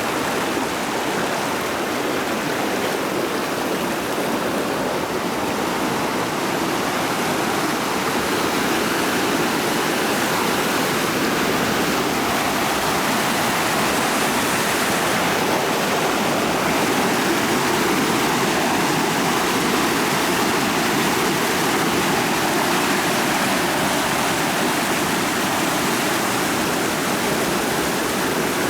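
A rocky forest creek rushing and splashing over rocks: a steady, even flow of water.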